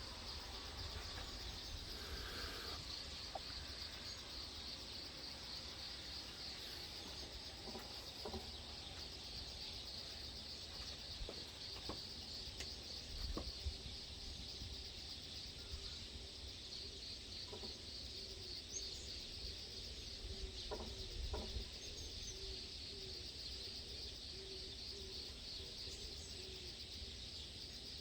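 Outdoor dawn ambience: a steady high chirring of insects with a low rumble underneath, and a faint wavering bird call, rooster-like, between about two-thirds and four-fifths of the way through.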